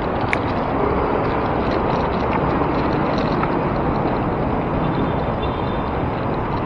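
Steady rushing noise of heavy city road traffic, with a single short click about a third of a second in.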